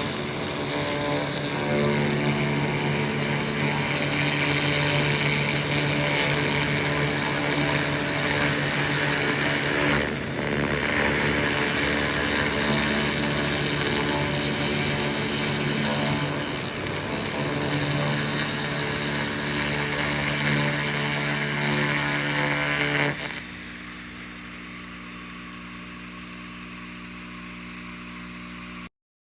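A 2000-watt laser rust remover firing on rusty metal: a steady hiss from the rust being burned off, over the machine's steady hum. About three-quarters of the way through the hiss stops and only the hum runs on, then everything cuts off suddenly near the end.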